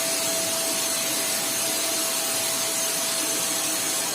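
Skyline 900-watt vacuum cleaner running steadily: a rushing hiss of suction air with a steady whine from the motor.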